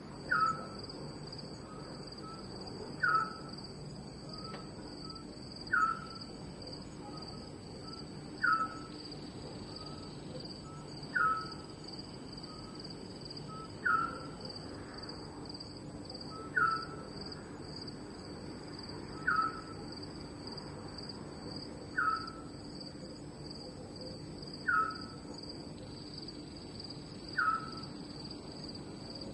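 Night ambience: a steady high insect trill from crickets, with a short falling animal call repeated evenly about every two and a half seconds, each one led by a faint short note.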